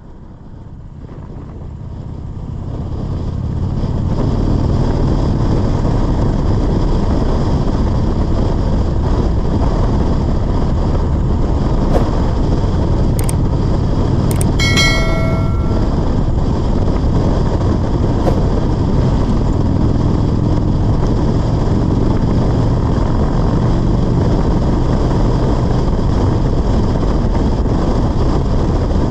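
Motorcycle riding at speed: steady engine rumble mixed with wind and road noise on the microphone, fading up over the first few seconds. A brief high tone sounds about halfway through.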